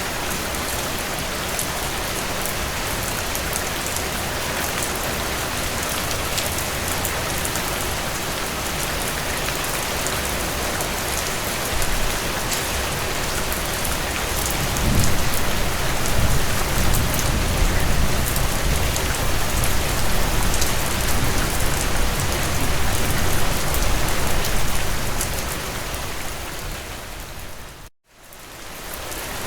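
Heavy rain falling steadily on a tin roof. About halfway through, a low thunder rumble swells up and rolls on for about ten seconds. Shortly before the end the sound dips almost to silence for a moment, then the rain comes back.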